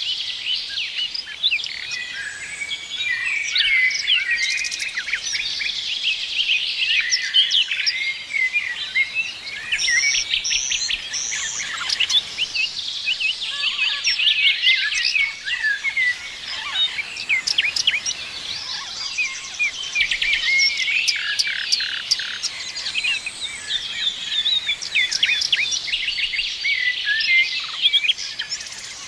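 A chorus of many songbirds singing and chirping together, dense overlapping calls and quick trills with no pause.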